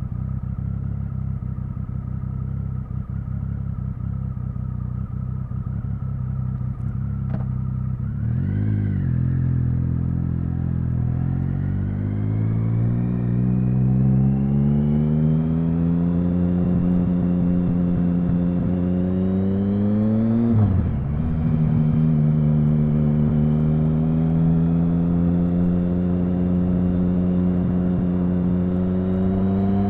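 Triumph Speed Triple 1050's inline three-cylinder engine, heard from on the bike: steady at low revs, a quick throttle blip about eight seconds in, then a long rising pull through the gear. An upshift about two-thirds of the way through drops the revs, and the engine climbs again in the next gear, rising sharply near the end.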